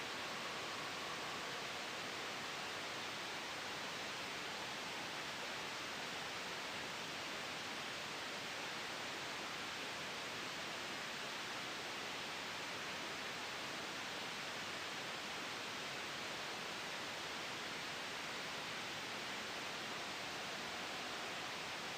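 Steady, unchanging white-noise hiss from a sleep-noise track, its energy weighted toward the middle and upper range like soft pink noise.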